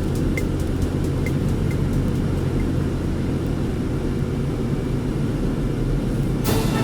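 Car driving, a steady low rumble of engine and road noise. A regular ticking rhythm fades out over the first couple of seconds, and music comes in near the end.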